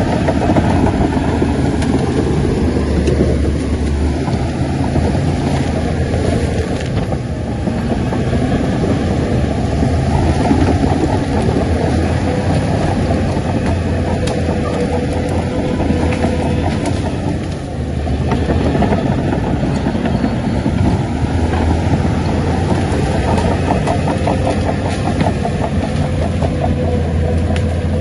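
Heavy diesel engine of a Shantui bulldozer running steadily under load, with a short dip in loudness a little past halfway.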